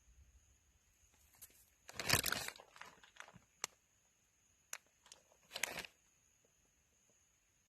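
Handling noises during food preparation: two short bursts of rustling about three seconds apart, with a few sharp clicks in between.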